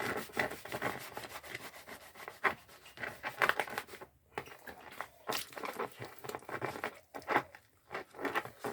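Hands rubbing and scrubbing a plastic motorcycle side panel to rinse off paint-stripper residue by hand, an irregular run of rustling, wiping strokes.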